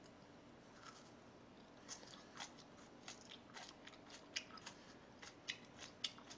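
Faint chewing of crunchy food close to the microphone: a quick, irregular run of short crisp crunches and clicks.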